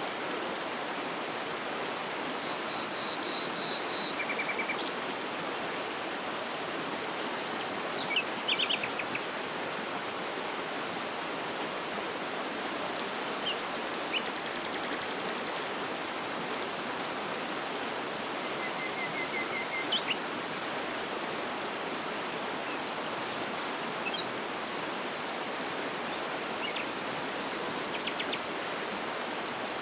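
Steady rush of a waterfall, with short bird chirps and trills scattered over it a dozen or so times.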